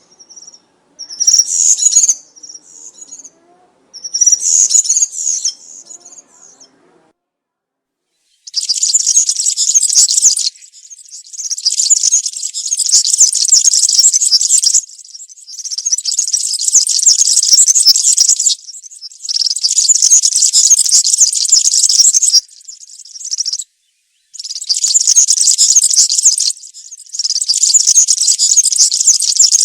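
European serin singing wild-type (campero) song, a fast, high-pitched jingling. There are a few short bursts in the first seven seconds, then after a brief pause a run of long phrases, each lasting two to four seconds, with short gaps between.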